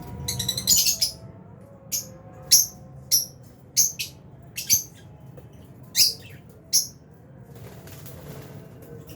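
Lovebirds chirping: a quick run of high chirps in the first second, then single sharp chirps every half second to a second until about seven seconds in.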